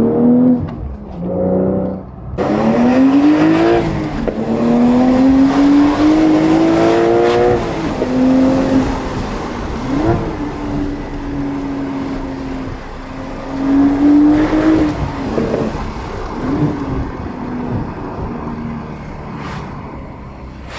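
Porsche 992 Carrera T's 3.0-litre twin-turbo flat-six through a valved titanium exhaust with the valves open, accelerating hard through the gears of its manual gearbox: the engine pitch climbs, drops sharply at each shift, then climbs again. Two quick throttle blips come about halfway and near three-quarters of the way through, and the engine eases off near the end.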